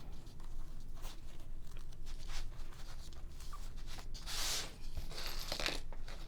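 Paper pages of a handmade junk journal being flipped and handled, a run of short rustles, the loudest about four and a half seconds in.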